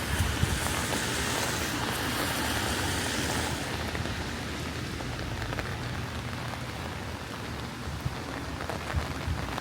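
Steady rain falling, an even hiss that eases a little a few seconds in, over a low rumble.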